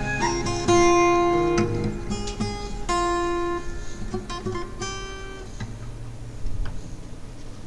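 Acoustic guitar playing the closing chords of the song's accompaniment, several chords struck and left to ring, dying away over the last few seconds.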